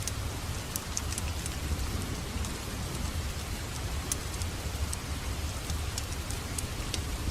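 Wood fire crackling in a fireplace: scattered sharp pops and crackles over a steady low rumble of the burning fire.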